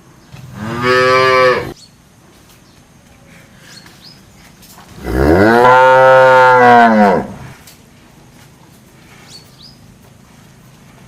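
Cow mooing twice: a short moo about half a second in, then a longer one of about two seconds starting around five seconds in. Each rises and then falls in pitch.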